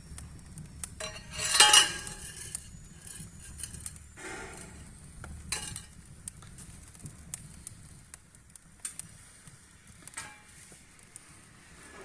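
Knocks and clatter of firewood being handled and set in a fireplace, with a louder scraping rustle about a second and a half in and smaller ones later.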